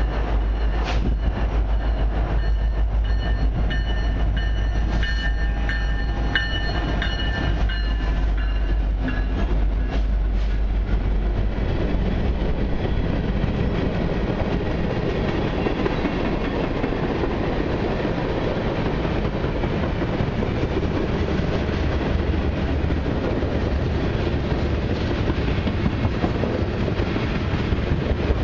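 A long freight train passing close by: the deep rumble of the lead CN SD70M-2 diesel locomotives for roughly the first ten seconds, with thin high steady tones over it, then the steady rolling noise of tank cars and flatcars on the rails with a faint clickety-clack.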